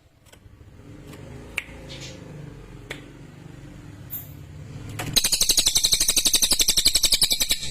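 Cililin songbird giving a sharp, very rapid high trill of fast repeated notes. It starts about five seconds in and lasts about two and a half seconds. Before it there is only a low background hum with a few faint clicks.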